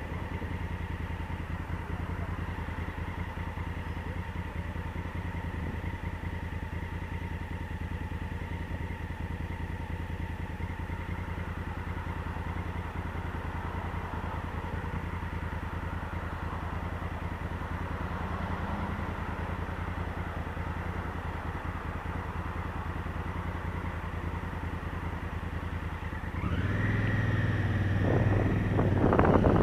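Honda Africa Twin CRF1000L's parallel-twin engine idling steadily, then revving up near the end as the bike pulls away.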